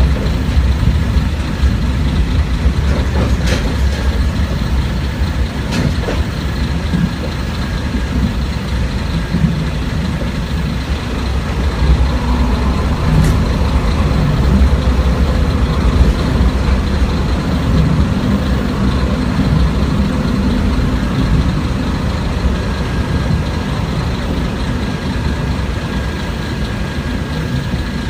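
Diesel engine and running noise of a Kashima Rinkai Railway 6000 series railcar heard from inside the car while underway: a steady low rumble, with a few sharp clicks over it and a slight swell in loudness midway.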